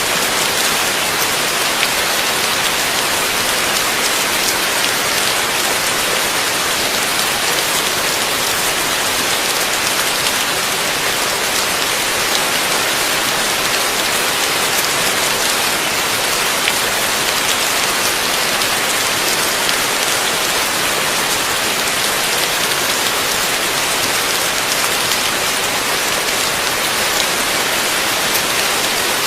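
Heavy rain falling steadily, a dense even hiss of many fine drop impacts.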